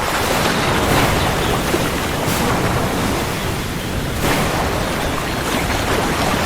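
Heavy rain falling steadily, with a low rumble underneath and gentle swells in intensity every second or two.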